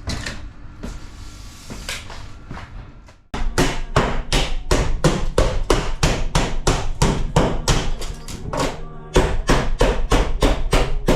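Hammer blows breaking out a school bus's thin acrylic-melamine ceiling panels. A few scattered strikes come first, then from about three seconds in a fast run of about four or five blows a second, with a brief pause near the end.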